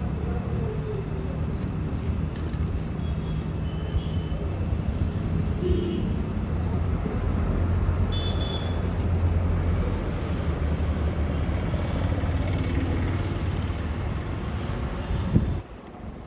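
A motor running steadily with a low hum among outdoor traffic noise, with a few brief high squeaks; it cuts off suddenly near the end.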